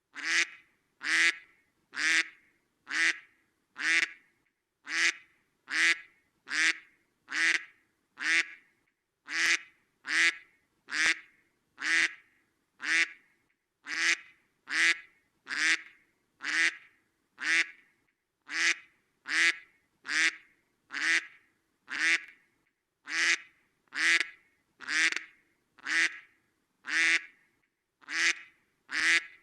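A duck quacking over and over, one short quack about every second, each call alike and evenly spaced.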